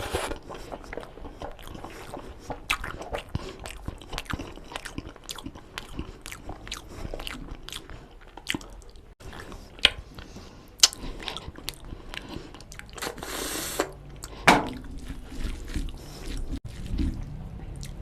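Close-miked eating: a person chewing and biting mutton nalli curry with rice, a steady run of wet mouth sounds and sharp crunching clicks, with a few louder crunches in the second half.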